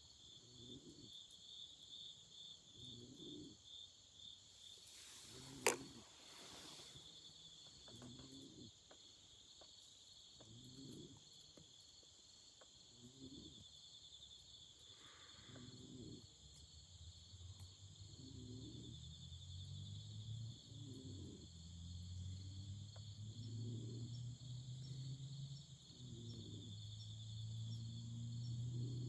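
Autumn crickets trilling steadily in high, pulsing chirps, with a single sharp campfire crackle about six seconds in. Underneath, a soft low sound pulses about every two seconds, and a low hum grows in the second half.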